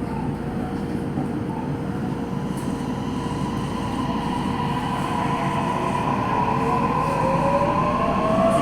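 Toei Mita Line subway train running, heard from inside the car: a steady rumble of wheels on rail. Near the end, the traction motors' whine rises in pitch and the noise grows louder as the train speeds up.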